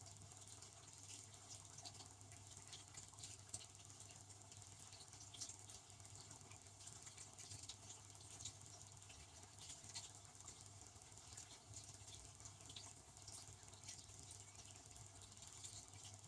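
Faint sound of a benchtop dishwasher running: a steady low pump hum under water spattering and pattering irregularly inside the tub as it washes.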